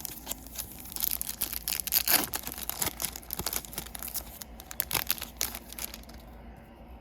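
Trading-card pack's foil wrapper being torn open and crinkled: a dense run of crackling and tearing that starts about a second in, is loudest soon after, and thins out near the end.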